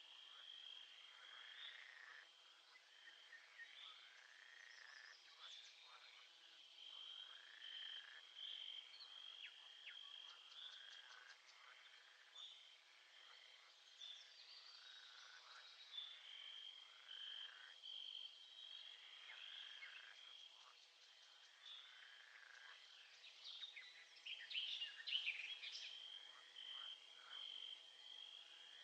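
Faint nature sound recording of frogs calling in a chorus. Under them runs a steady, rapidly pulsing high trill, and a brief flurry of chirps comes a little before the end.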